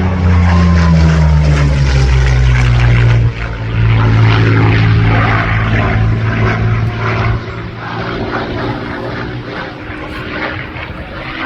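Piston-engined propeller aircraft flying past, loud. Its engine note drops in pitch as it passes, then fades after about seven seconds.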